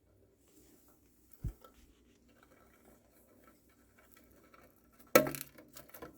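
Faint scratching and rustling of a mouse handling a live cicada, with a low thump about a second and a half in and a short, loud crackle about five seconds in, followed by a few small clicks.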